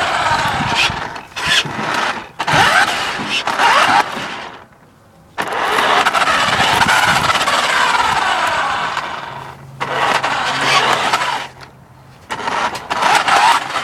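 Remote-control toy car's electric motor and gears whining in repeated bursts as it drives, the pitch rising and falling with the throttle, with short pauses between runs.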